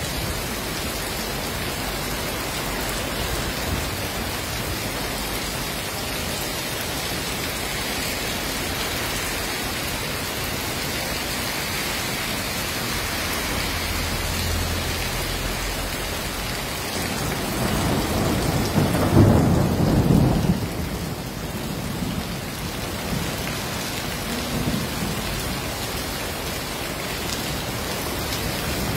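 Heavy rain falling on a wet street, a steady hiss, with a low rumble of thunder that swells and fades about two-thirds of the way through.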